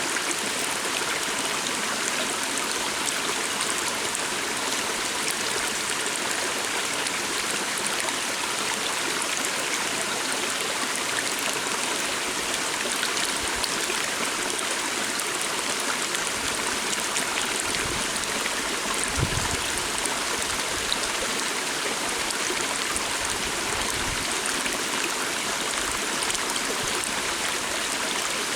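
Water stream flowing steadily, a continuous rush of water with no change in strength. There are a few soft low bumps about two-thirds of the way through.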